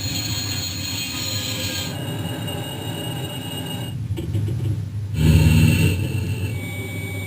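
Jet aircraft engine noise with steady high-pitched turbine whines over a rushing roar, changing abruptly a few times; a deeper rumble comes in a little after halfway.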